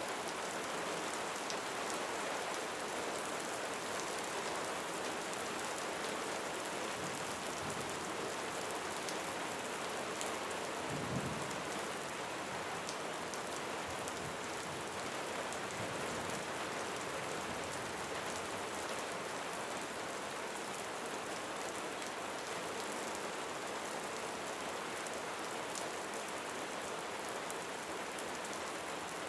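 Steady rain falling on a roof: a continuous hiss with scattered sharper drip ticks. About eleven seconds in there is a brief low thump.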